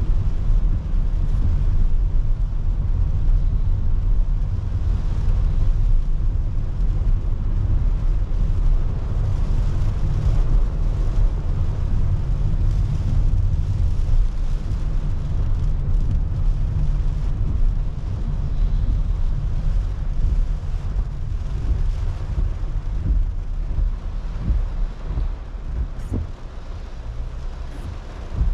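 A car driving on a wet road in the rain: a steady low rumble of road and tyre noise under an even hiss of rain and spray, easing slightly near the end.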